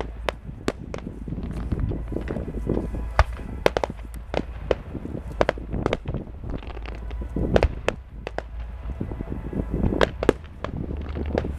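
Fireworks going off: a run of sharp bangs and cracks from bursting shells, at irregular intervals, over a steady low rumble.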